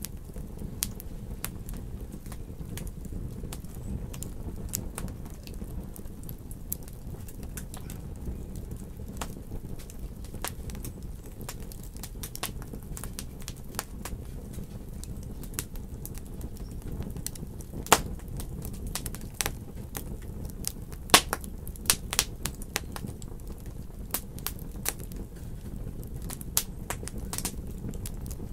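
Wood fire in a fireplace crackling steadily over a low rumble, with frequent small snaps and a few louder pops, the sharpest about eighteen and twenty-one seconds in.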